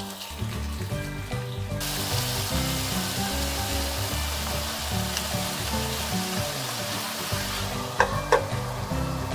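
Chicken pieces sizzling as they fry in an oiled frying pan, the sizzle growing much stronger about two seconds in. Near the end a lid is set on the pan with two quick metallic clinks. Background music plays underneath.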